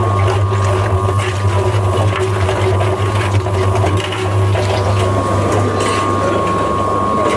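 A machine's motor running steadily: a strong low hum with a thin, steady whine above it and constant rattling, as the phone is put through a sand-and-water test.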